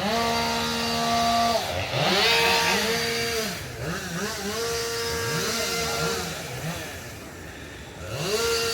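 Chainsaw revving in bursts, held at full throttle for a second or two at a time and dropping back toward idle in between, several times over.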